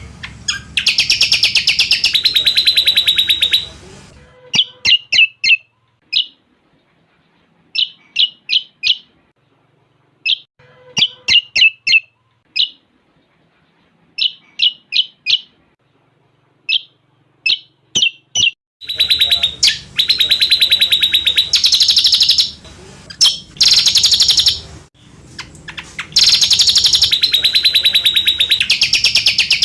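Recorded song of a cucak combok songbird with cililin fill-in phrases, played for bird-song training. Loud, fast, high trills give way about four seconds in to groups of three or four short, sharp chirps, and the loud fast trills return about nineteen seconds in.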